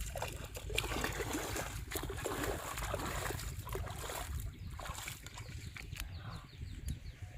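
Water splashing and trickling in irregular bursts over a steady low rumble, busiest in the first four and a half seconds and lighter after.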